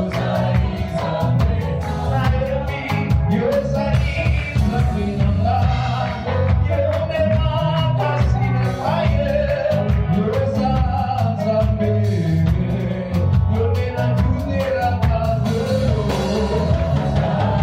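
Gospel worship band playing with singing, over steady bass and a regular drum beat.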